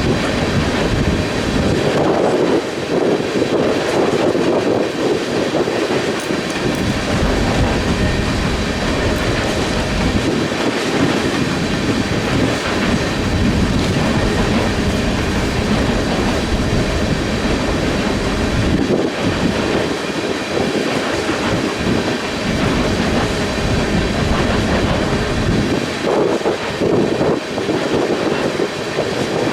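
Freight train cars rolling steadily past on the rails, with gusting wind buffeting the microphone.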